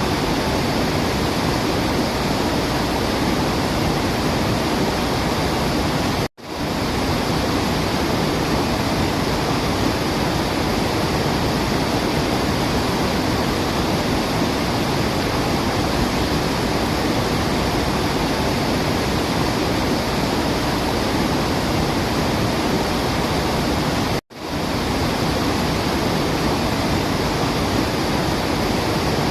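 Waterfall rushing: a steady, even hiss of falling water with no birdsong standing out. The sound drops out for an instant twice, about six seconds in and again some eighteen seconds later.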